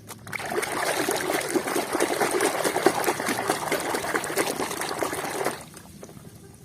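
Water running and splashing over a muddy toy vehicle as it is rinsed clean. It starts just after the opening and stops about five and a half seconds in.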